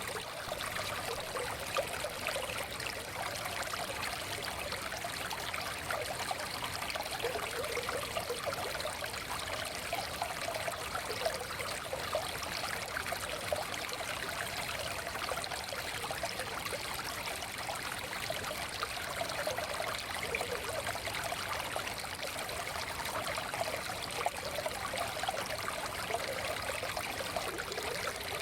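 Forest stream flowing steadily over stones, a constant babbling and trickling of water.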